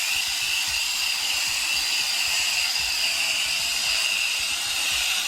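Coil gun spraying coil cleaner onto a heat pump's outdoor coil: a steady, high hiss that holds without a break.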